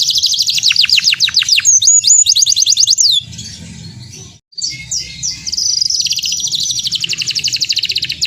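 Domestic canary singing loudly in rapid trills and quick falling sweeps; about halfway through the song drops away briefly, then resumes with a long, fast trill.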